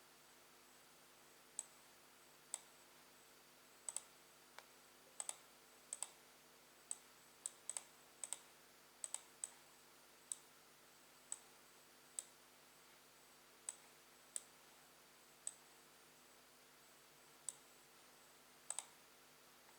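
Sharp computer button clicks at an irregular pace, roughly one a second, several of them quick double clicks, over a faint steady hum.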